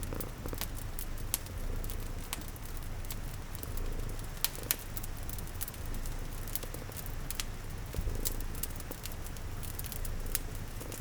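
Domestic cat purring in a steady low rumble, layered with the sharp pops and crackles of a wood fire and a soft, even hiss of rain.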